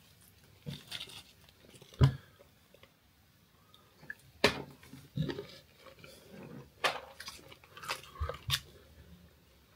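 Someone eating a mouthful of sriracha-coated peanuts close to the microphone: chewing with several sharp crunches, the loudest about two seconds in.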